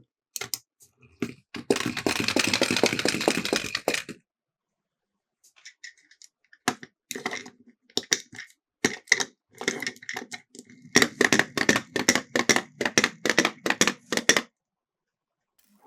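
Miniature toy cars clattering on a plastic track: rapid, dense runs of small clicks and rattles. The first run starts about one and a half seconds in and lasts two and a half seconds; after a pause come scattered clacks, then a second long rattling run near the end.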